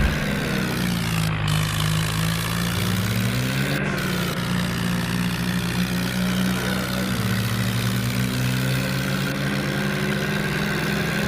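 Tractor engine running steadily, its note shifting down and back up a few times as the revs change.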